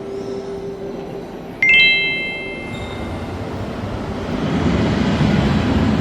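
A single bright bell-like ding about a second and a half in, ringing out and fading over about a second. Under it is a steady low noise that grows louder near the end.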